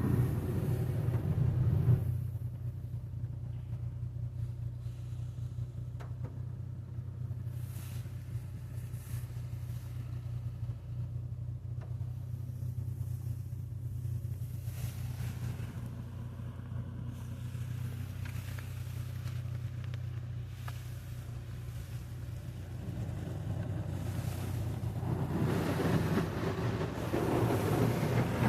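Automatic car wash machinery running with a steady low hum. A rushing spray noise fades out about two seconds in and builds up again over the last few seconds.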